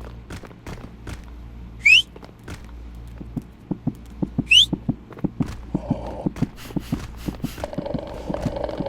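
A dog giving two short, high squeaky cries that rise in pitch, about two and a half seconds apart, amid quick clicking and tapping. Near the end a rough, noisy rasp is also heard.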